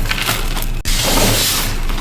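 Re-formed gym chalk being crushed: dense, crunchy crackling made of many small snaps, with a brief break just under a second in before a hissier, powdery crunch.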